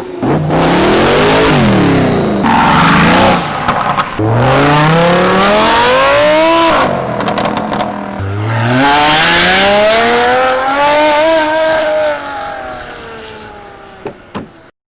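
Car engines revving and accelerating in several long rising and falling runs, loud throughout, the last run fading away near the end.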